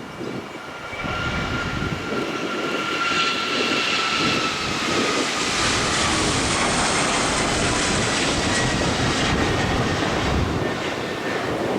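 Jet airliner engines passing close by: a loud rushing noise that builds about a second in, with a high whine that slowly drops in pitch as the aircraft goes past.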